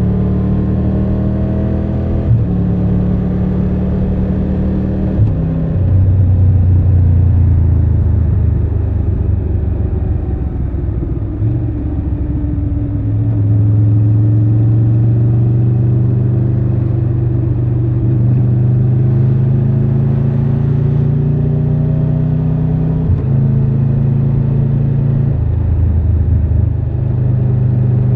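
Triumph Tiger 1200 Rally Pro motorcycle's three-cylinder engine running under way, its pitch rising under throttle and dropping abruptly several times as gears change or the throttle is closed.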